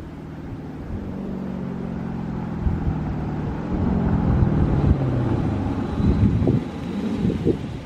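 Dodge Charger Scat Pack's 392 (6.4-litre) HEMI V8 with its mufflers deleted, rumbling at low revs and growing steadily louder as the car approaches.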